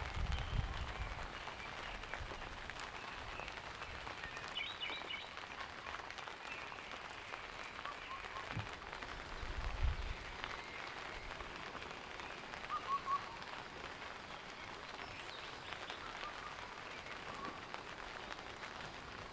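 Steady rain falling, with a few short bird chirps. There is one dull low thump about ten seconds in.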